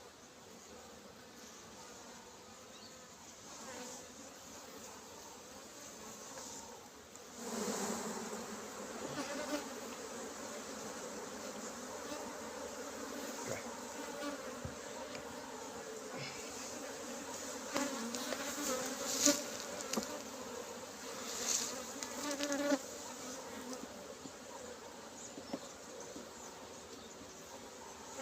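Honeybees buzzing in a steady hum around an opened hive, swelling louder about a quarter of the way in. A few short clicks and scrapes sound over the hum in the second half.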